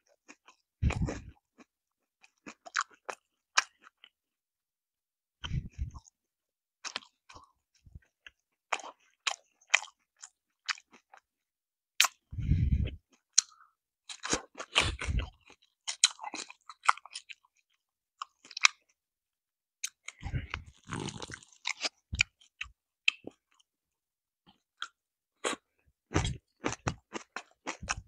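Close-miked chewing of crispy fried chicken: irregular crackling crunches as the coated chicken is bitten and chewed, with a few short, dull thumps along the way.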